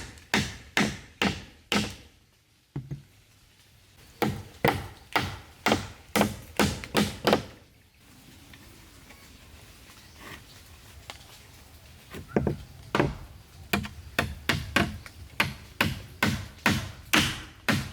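Repeated strikes of a tool on wood, as in chopping or hammering timber, about two a second in runs broken by pauses of a few seconds.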